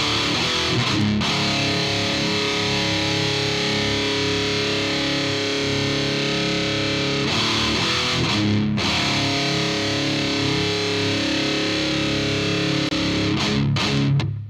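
Distorted electric guitar playing sustained chords through a UAD Volt 276 interface with its 76 compressor and Vintage mode on, changing chords about a second in, around eight seconds in and near the end.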